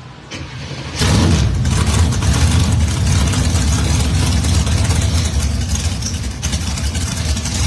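Drag-racing Ford Mustang engines running loud and rough close by, cutting in suddenly about a second in.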